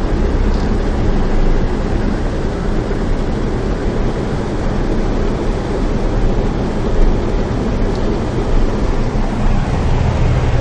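Heavy rain falling on a car's roof and windows, heard from inside the car as a loud, steady rushing noise.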